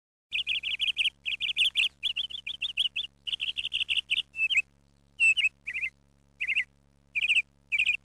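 A songbird singing in fast runs of rapid, high chirped notes. The runs break into shorter separate phrases after about four seconds. A faint low hum lies underneath.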